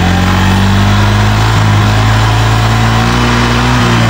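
Kymco KRV scooter's single-cylinder engine idling steadily, running smoothly, with small shifts in engine speed.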